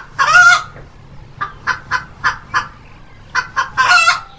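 Hen clucking: a string of short clucks, broken twice by a longer drawn-out squawk, once just after the start and once near the end.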